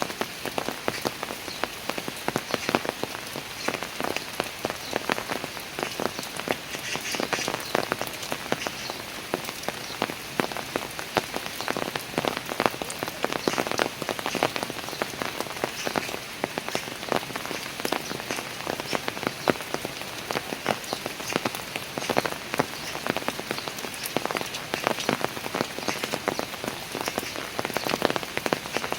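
Steady rain falling on hard surfaces, with a dense patter of individual drops.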